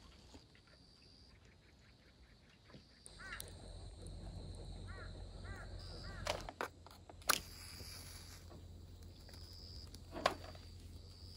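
A bird calling four times in short arched calls, followed by a few sharp clicks or knocks, the loudest about halfway through.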